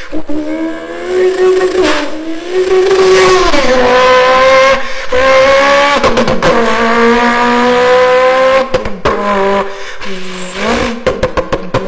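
A person imitating JDM car engines with their mouth: a held engine note that climbs in pitch and drops sharply several times, like gear changes on a flyby. Near the end the note breaks into a quick run of short stutters.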